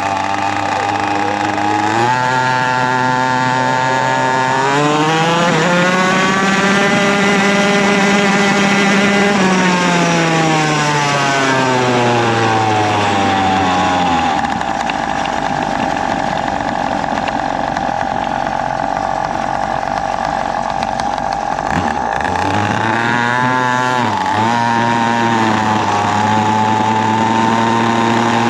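Small 49cc minibike engine revving up, holding high revs for a few seconds, then winding back down. After a steady stretch it dips briefly and picks up revs again near the end.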